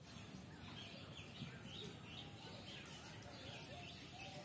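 Faint birds chirping outdoors, a string of short repeated calls with a few lower gliding notes, over a quiet background hiss.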